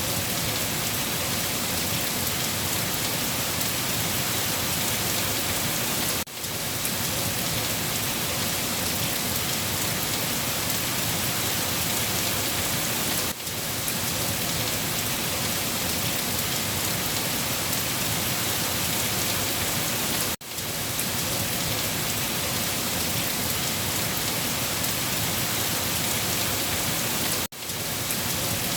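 Steady heavy rain falling, an even hiss with no breaks except short dips in level about every seven seconds.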